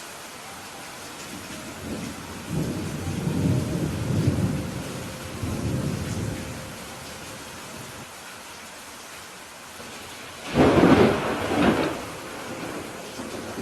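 Steady rain falling, with a long low rumble of thunder a few seconds in and a louder, sharper clap of thunder about two-thirds of the way through.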